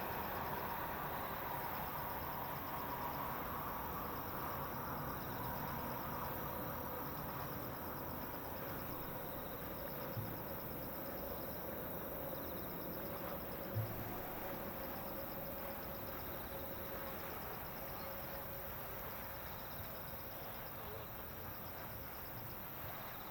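Distant jet aircraft noise slowly fading away, with insects chirping in a steady pulsing rhythm high above it.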